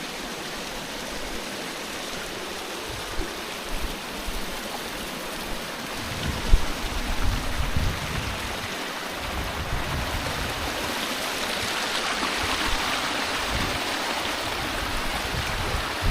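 Stream water running over rocks: a steady rush that grows louder in the second half. Low rumbling bumps on the microphone come in the middle, with one sharp knock about six and a half seconds in.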